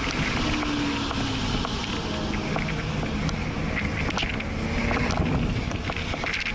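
Porsche sports car's engine heard from inside the cabin, its pitch rising and falling as the throttle changes while it is driven through turns, with wind and road noise over it.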